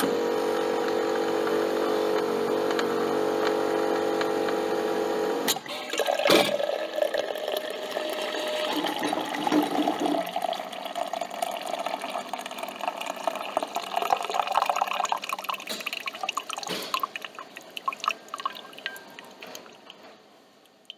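Coffee machine running with a steady motor hum for about five seconds. After a click and a knock, liquid gurgles and sputters into the cup, gradually fading toward the end.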